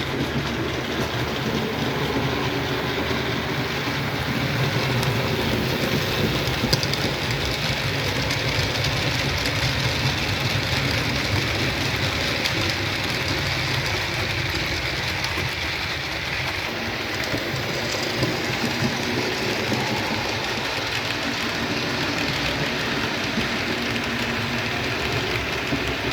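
OO gauge model trains running on the layout's track: a steady whirring of small electric motors and wheels rolling over the rails, with occasional light clicks.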